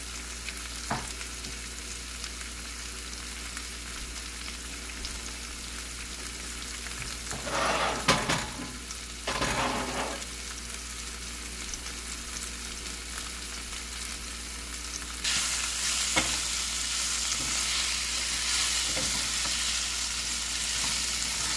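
Sliced bell peppers and onions sizzling in oil in a stainless steel frying pan, stirred with a wooden spoon. There are two brief louder bursts about a third of the way in, and about two-thirds through the sizzle grows louder and stays so.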